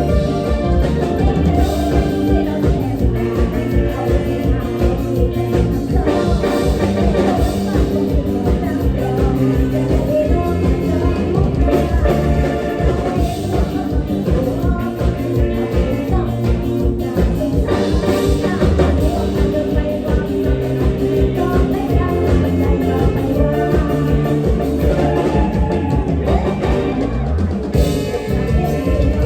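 Live Isan mor lam band playing a lam toei song, with singing over a steady drum-kit beat.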